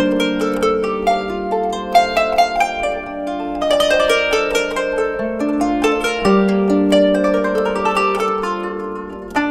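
Kanun, the Turkish plucked zither, playing an instrumental melody: quick runs of plucked notes ringing over longer-held low notes.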